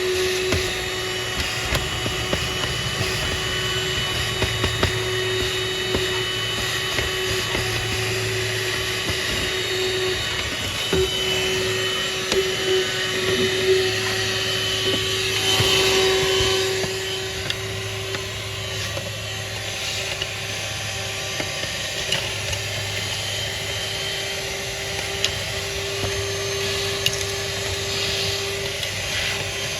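Small electric vacuum cleaner running steadily as it sucks up rust dust around a wheel hub's ABS sensor hole, a constant motor hum and whine with short clicks now and then.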